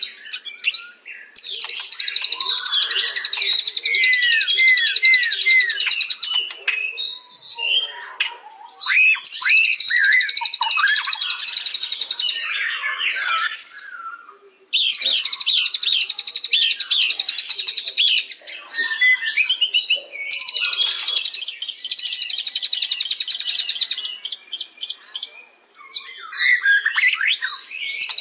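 White-rumped shama (murai batu) singing. Four long stretches of rapid, high, buzzy trilling, each lasting several seconds, alternate with varied whistled phrases that sweep up and down.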